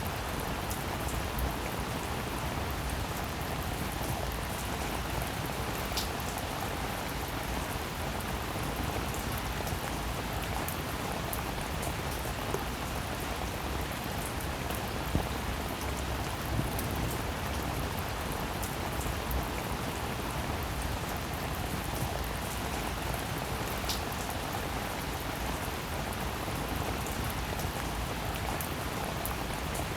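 Steady rain falling: an even, dense hiss with scattered individual drops ticking through it.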